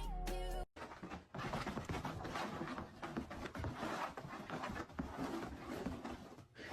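Dog panting, with irregular scuffling and small scratchy noises. A brief bit of music cuts off abruptly just under a second in.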